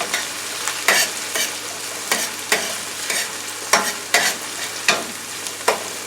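Chopped onions, scallions and bell peppers sizzling in oil in a frying pan while being stirred. A utensil knocks and scrapes against the pan at irregular intervals, about nine times.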